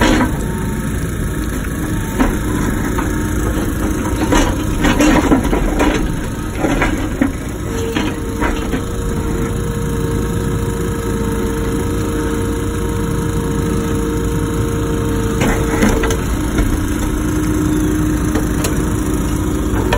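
Wacker Neuson ET145 excavator's diesel engine running steadily, with a series of knocks and clunks of the bucket striking and working rock in the first half and again briefly later on. A steady whine rises over the engine for several seconds in the middle.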